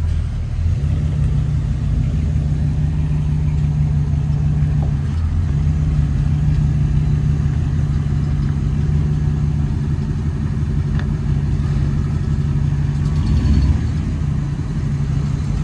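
Pickup truck engine idling steadily with a deep, even exhaust drone.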